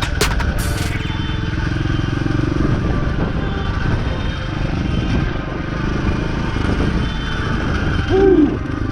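DB14 dirt bike's small engine running steadily while being ridden, with a few sharp knocks in the first second. Near the end there is a short tone that rises and falls in pitch.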